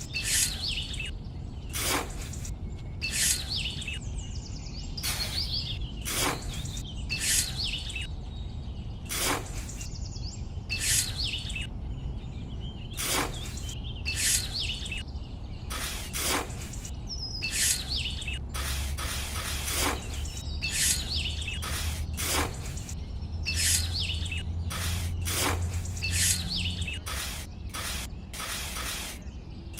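Birds chirping in short repeated calls about every second or two, over a steady low hum that grows louder for several seconds after the middle.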